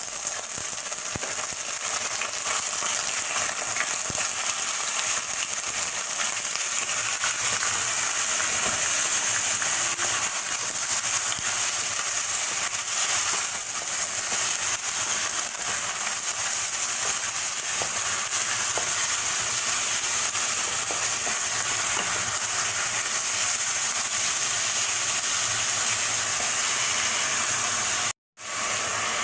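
Celery and squid stir-frying in a hot pan, a steady sizzle with faint light clicks of stirring; the sound cuts out abruptly for a moment near the end.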